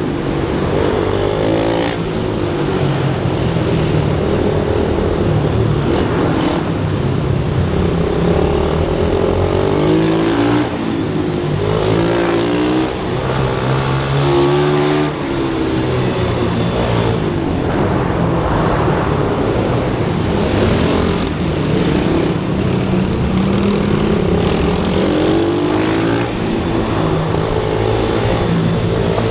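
Pit bike engines revving up and down on track, their pitch rising and falling again and again.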